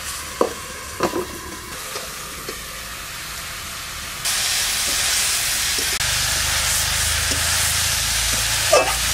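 Banana flower and potato ghonto cooking in an aluminium kadai over a wood fire: a few light knocks at first, then from about four seconds in a sudden, loud, steady sizzling hiss of the pan and its steam.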